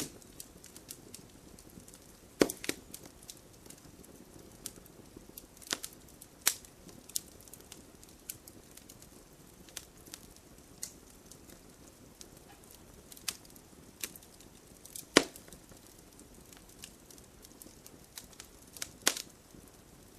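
Wood campfire crackling: a low steady hiss broken by irregular sharp pops and snaps, a few of them much louder than the rest.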